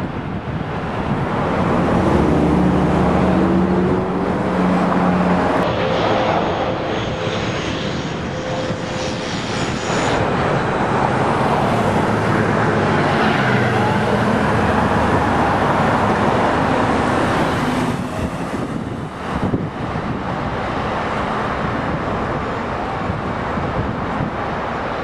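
Jet airliner engines passing, a loud steady jet noise with whining tones that shift in pitch, easing off near the end into wind on the microphone.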